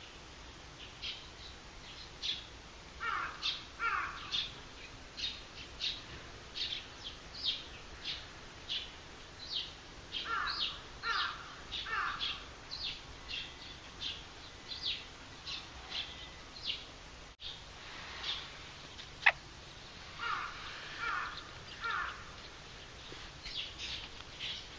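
Wild birds calling: a long series of short, high chirps repeating about once or twice a second. Several times, two or three lower, harsher calls come in quick succession. A single sharp click stands out about two-thirds of the way through.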